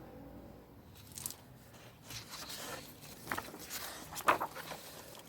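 Several short rustles and soft handling noises, about five in all, the loudest near the end.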